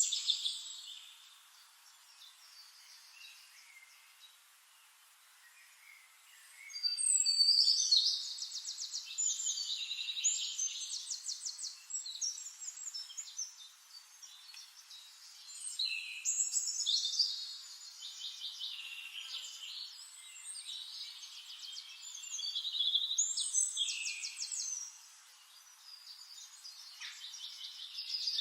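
Songbirds singing: three long, fast-trilling phrases of high-pitched song, with quieter chirping and pauses between them.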